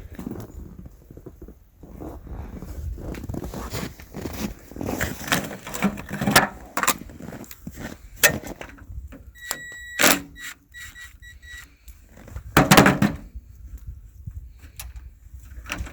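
Metal hand tools clinking and knocking while the starter wire is being unbolted from a single-cylinder Kohler lawn tractor engine, with a short squeak and a run of quick even clicks about two-thirds of the way through.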